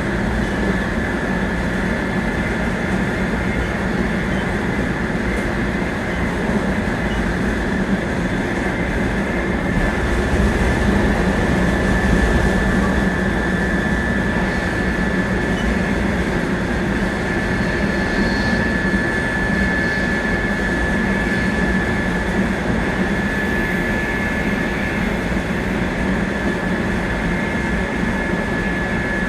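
700 series Shinkansen running steadily, heard from inside the car: a continuous rumble of wheels on rail, with a thin steady high whine over it.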